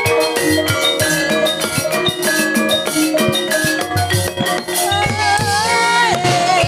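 Gamelan accompaniment for an ebeg horse dance: struck metallophone notes and hand drums in a steady, busy rhythm. A wavering held melody line comes in about five seconds in.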